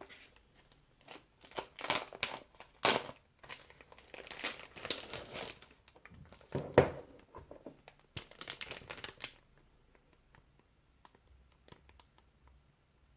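Plastic wrapping crinkling and tearing in irregular bursts as a boxed CD set is unwrapped by hand, with a sharp knock about two-thirds of the way through. The handling falls off to faint ticks near the end.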